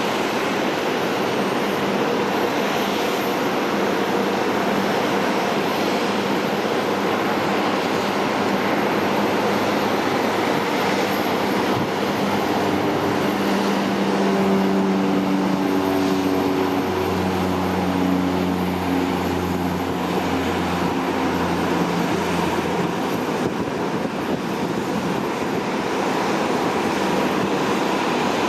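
Cessna 208B Super Cargomaster's single turboprop engine and propeller under takeoff power: a steady rush. Propeller tones come through from about the middle and fall in pitch as the aircraft passes.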